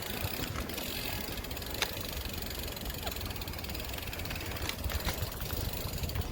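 Steady rumble of road traffic and riding noise heard from a moving bicycle, with a few light clicks.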